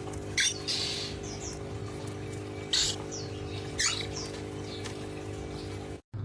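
A parrot's short, high squeaky chirps in three quick clusters, several of them falling in pitch, over a steady low mechanical hum.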